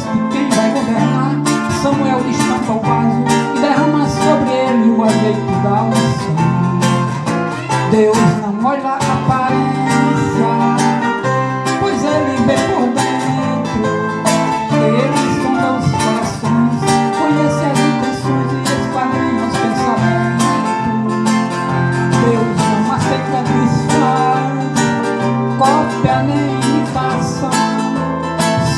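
Instrumental passage of a Brazilian gospel song: acoustic guitar plays continuously over a repeating line of low held notes.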